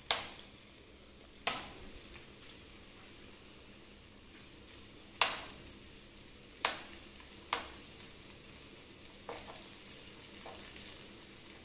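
Mutton keema kababs and potato slices sizzling steadily in oil in a frying pan while they are turned over, with a metal spoon clicking against the pan several times.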